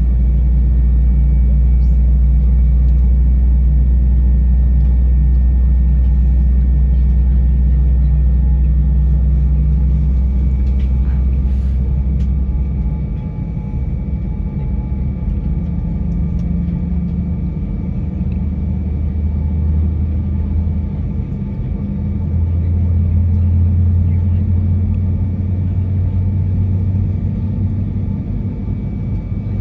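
Airliner cabin noise inside an Airbus A320-232: a steady low rumble and hum from its IAE V2500 engines, with faint steady whining tones above. The low hum drops and shifts in pitch about a third of the way in, then rises again.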